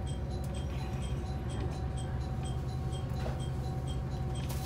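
Sightseeing diesel railcar running along the line: a steady low rumble with a constant hum, and a light regular ticking about four times a second.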